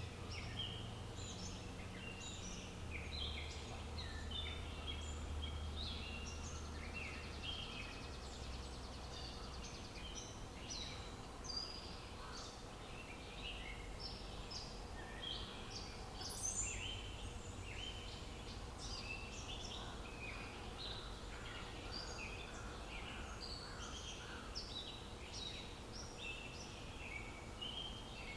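Many songbirds chirping and singing at once, a continuous stream of short overlapping chirps, over a low steady rumble.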